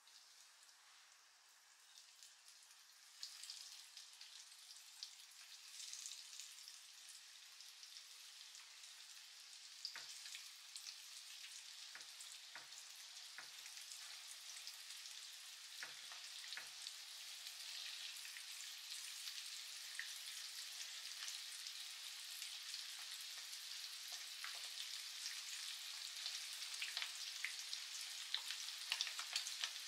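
Flour-coated chicken wings frying in hot oil in a pan, sizzling and crackling. The sizzle builds steadily louder as more wings go in, with a few sharper pops about a third to halfway through.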